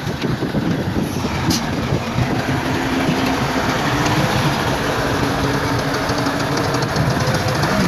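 Bulldozer's diesel engine running steadily under load, with the clatter of its steel tracks.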